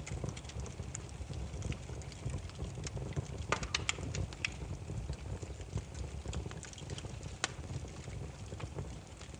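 Wood fire crackling: irregular sharp pops over a low, steady rumble of burning logs, with a quick flurry of pops about three and a half seconds in and a single louder pop later on.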